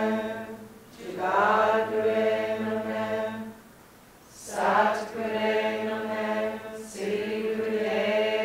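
A mantra chanted in song: long held vocal phrases over a steady drone, each phrase a few seconds long with short breaks for breath between them.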